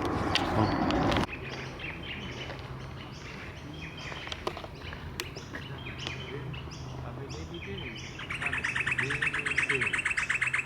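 Wild birds calling: repeated short high chirps, then about eight seconds in a loud, fast rattling trill starts and keeps going. A rush of noise in the first second cuts off suddenly.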